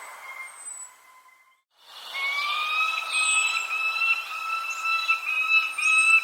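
Birds calling: long, steady held calls fade out, there is a brief near-silent gap, and about two seconds in a new stretch of held calls starts, broken into short segments, with brief high chirps over them.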